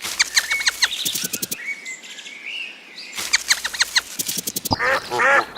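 Two quick bursts of rapid, high chirping from birds, then a run of repeated duck quacks starting near the end.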